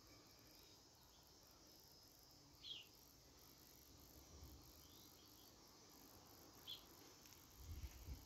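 Near silence outdoors, broken by a few faint, short high chirps from a small bird, each a quick downward sweep, spaced several seconds apart. A brief low rumble comes near the end.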